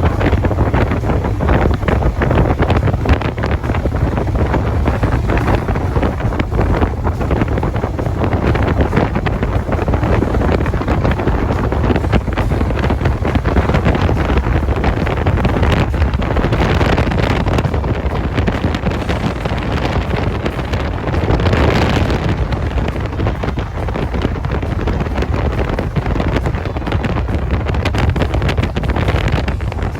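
Heavy wind buffeting the microphone on a moving motorcycle: a loud, continuous rumbling rush of air.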